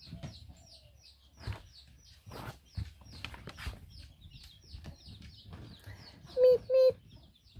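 Bird chirping: a steady run of short, high, falling chirps about three a second. Near the end come two short, louder calls from the hen.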